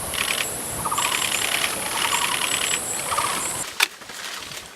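A bird giving rapid rattling calls in four short bursts, over a steady high hiss that stops abruptly near the end, followed by a single sharp click.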